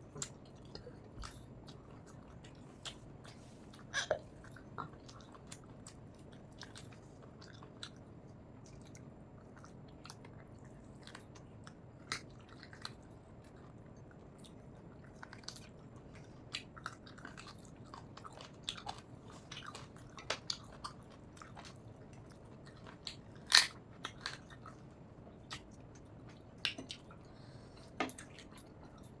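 Close-up eating sounds: chewing and biting with irregular small clicks and crunches as a meal of rice and spicy country-chicken curry is eaten, the food called very tough. One louder click comes about two-thirds of the way through.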